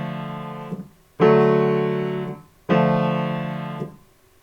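Piano chords: the minor version of a chord dies away, then two more chords are struck about a second and a half apart, each ringing for about a second before being released.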